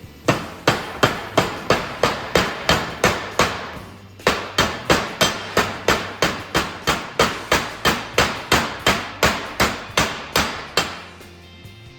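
Hand hammer striking a tight bolt to drive it through a hole in the steel mount, a steady run of sharp blows about three a second, a short pause about four seconds in, then a longer run that stops near the end.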